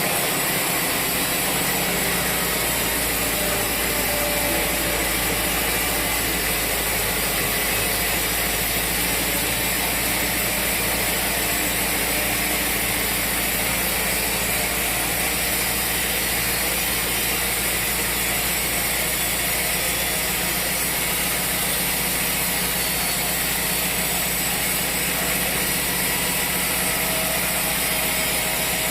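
Sawmill machinery running steadily: an even mechanical drone with a constant hiss above it, holding the same level throughout.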